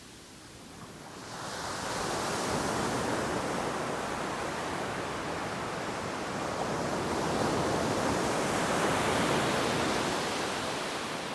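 Ocean waves breaking and washing up the beach, the surf swelling about a second and a half in and cresting again near the end before easing off.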